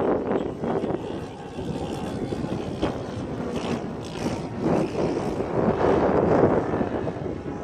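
Radio-controlled Seagull Edge 540 model aerobatic plane's engine and propeller running in flight, the sound swelling and fading.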